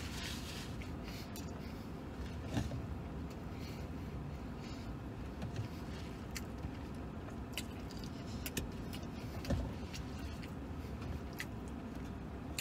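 Chewing and mouth noises of a man eating a sandwich, with scattered small clicks and rustles from handling the paper box, over a steady low rumble of the vehicle cab.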